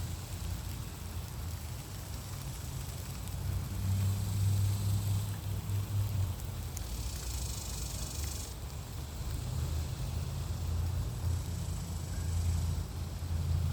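Outdoor summer ambience: a steady low hum with high-pitched insect buzzing that swells in stretches, loudest from about seven to eight and a half seconds in.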